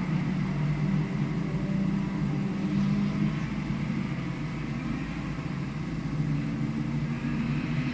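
Vehicle engine running on a race circuit, heard on board over steady wind and road noise; the engine note is strongest in the first few seconds, eases in the middle, and picks up again near the end.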